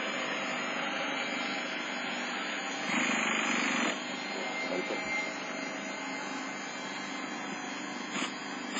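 Electric starter spinning a Freya 90 model engine that does not fire, a steady whir that gets louder for about a second near the middle. The engine stays stiff, with gelled winter fuel and a weak starter battery blamed for the failure to start.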